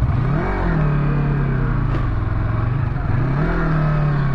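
Yamaha R25's parallel-twin engine accelerating in traffic, its note rising about half a second in, dipping near three seconds and rising again, then holding steady.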